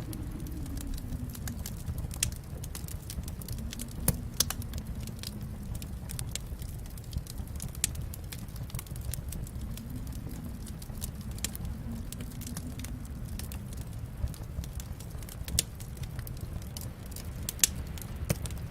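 Fire burning in a fireplace: a steady low rumble of the flames with frequent small crackles and a few louder pops.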